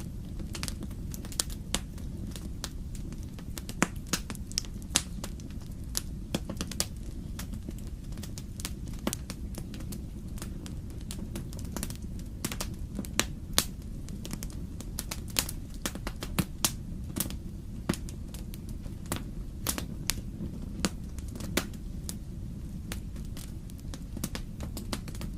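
Wood fire crackling in a fireplace: irregular sharp pops and snaps of varied loudness over a steady low rumble.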